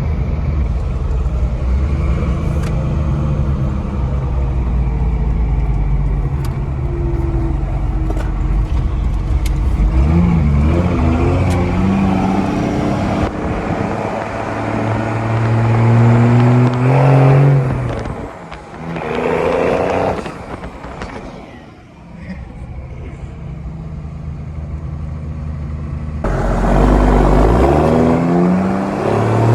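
1993 Dodge Ram's 5.9 12-valve Cummins turbo diesel pulling the truck along a drive, its note rising several times as it accelerates and dropping back between pulls. The engine eases off and quietens briefly after the middle, then comes back on strongly near the end.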